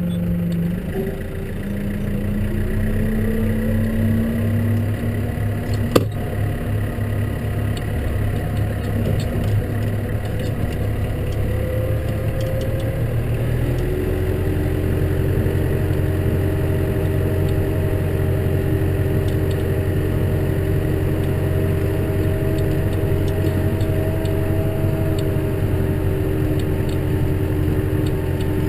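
Case tractor's diesel engine running steadily while snow ploughing. The engine note changes about halfway through, and a single sharp click comes about six seconds in.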